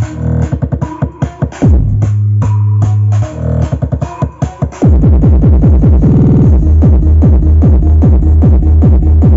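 Electronic dance music played loud through a Sony FLX9W mini hi-fi system as a sound test: heavy bass and drum-machine beats that stop and start in the first half, then about five seconds in settle into a steady bass line under rapid falling synth sweeps.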